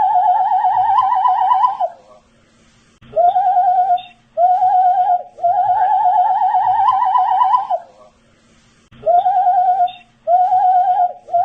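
A person whistling a short looping tune: two short notes, then a long wavering note that climbs slightly. Brief pauses separate the phrases, and the tune repeats about every six seconds.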